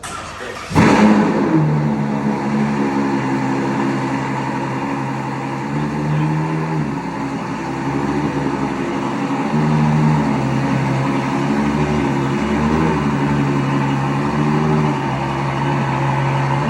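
Ferrari F12berlinetta's V12 with a Novitec exhaust starting up under a second in with a loud flare, then settling to a steady idle.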